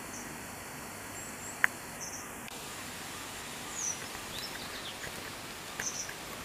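Wagtail calls: short, high chirps now and then over a steady outdoor hiss, with one sharp click about a second and a half in.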